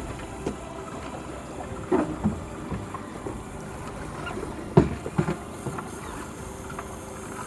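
Fishing boat at sea: steady wash of water and wind, broken by a few short knocks and thuds, the loudest just under five seconds in.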